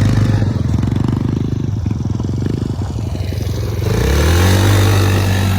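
Small single-cylinder four-stroke dirt bike or mini quad engine running hard close by. Its revs climb about four seconds in and hold high.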